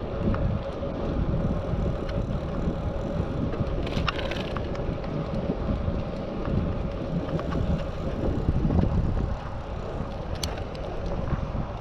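Wind buffeting a bicycle rider's action-camera microphone while riding, over steady tyre and road noise. There are a few small clicks and rattles, two of them sharper, about four seconds in and near the end.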